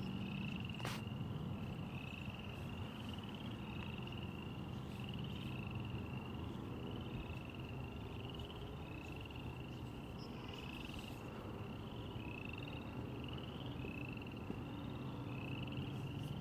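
A frog calling over and over in short, slightly rising calls, roughly two a second, over a steady low background rumble.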